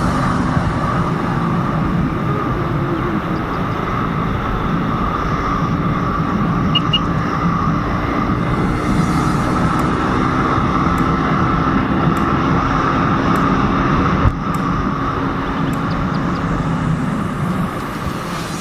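Suzuki GSX-S150's single-cylinder four-stroke engine running steadily while the motorcycle is ridden, with wind rushing past the microphone. There is one short knock about fourteen seconds in.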